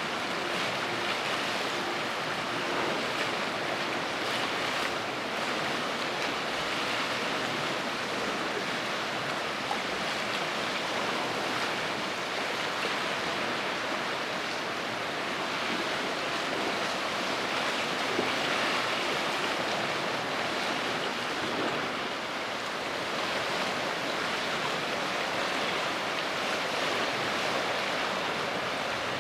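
Steady rushing noise of wind and water at the waterside, with no distinct tones or knocks.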